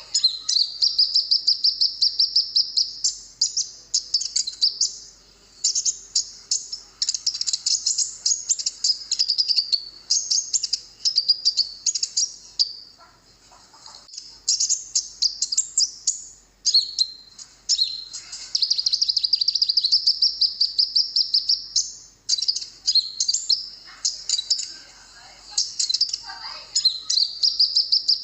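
Konin bird singing: a long, high-pitched song of rapid chattering trills and twitters, broken by a few short pauses. It is a masteran, a recording played to train caged birds to sing.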